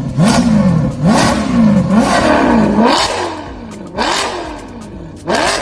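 Car engine with a loud aftermarket exhaust being blipped repeatedly, about once a second: each rev jumps up sharply and falls back, with crackles on each blip.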